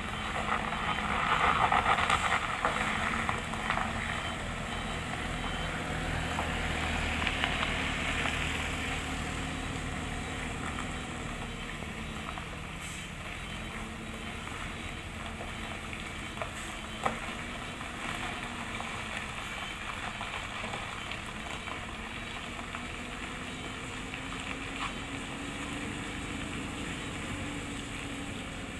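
Hino container truck's diesel engine running under load, its pitch drifting slowly up and down, with loud bursts of hiss about a second in and again around seven to nine seconds in.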